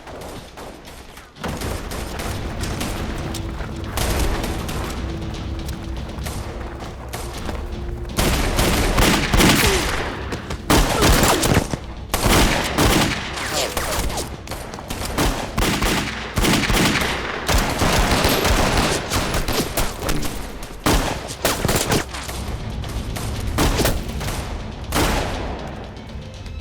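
Gunfight with repeated volleys of gunshots, heaviest from about eight seconds in.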